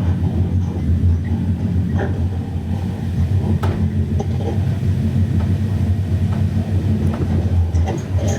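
Passenger train running on the rails: a steady low rumble with scattered clicks and knocks.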